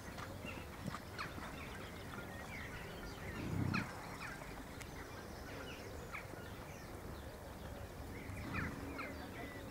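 Wild birds chirping and singing, many short calls and quick whistles throughout, over a steady outdoor hiss. A brief, louder low sound comes about three and a half seconds in, and a fainter one near the end.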